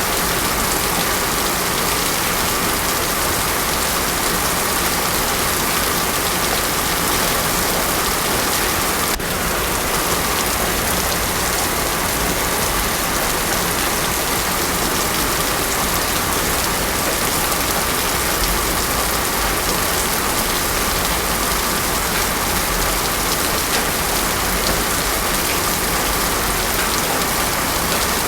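Heavy rain falling steadily on a road, an even, dense hiss with no thunder. There is a momentary dip in level about nine seconds in.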